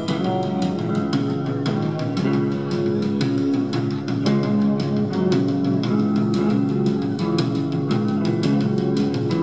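Live rock band playing an instrumental passage: guitar chords over bass guitar with a steady beat.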